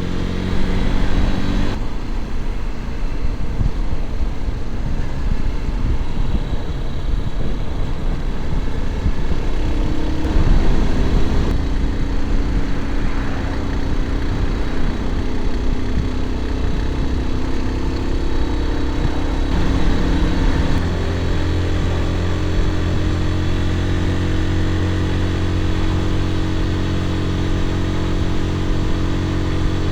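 Motorcycle engine running while riding, its note shifting in pitch several times and rising about ten seconds in, over a steady rush of road and wind noise.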